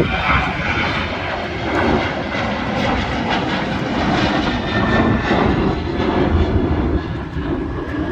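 Airliner engines at take-off power as a plane takes off: a loud, rough, steady rumble that eases a little near the end.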